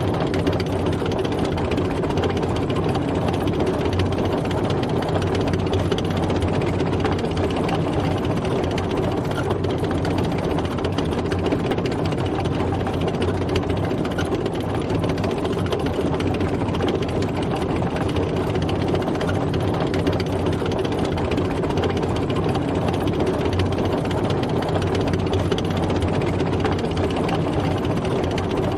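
Tank driving, its engine running steadily with a dense, even mechanical noise and no change in pitch or level.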